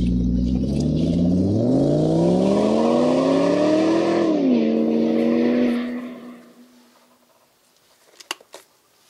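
Car engine running, revved once with its pitch rising and falling back, then fading out about six seconds in. A few sharp clicks follow near the end.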